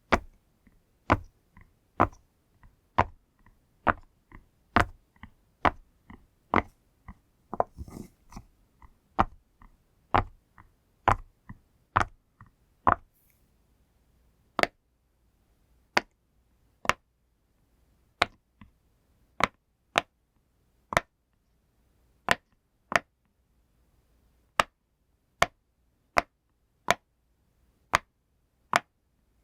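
A fidget pop toy being pressed again and again, each press a sharp, short pop. The pops come quickly, with softer ones in between, for the first half, then slow to about one a second.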